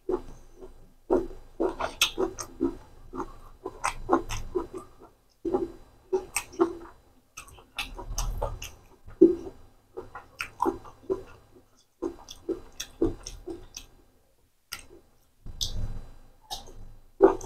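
Close-up chewing of a mouthful of rice and chicken liver curry, a run of quick clicks and pops that comes in bursts with short pauses between them.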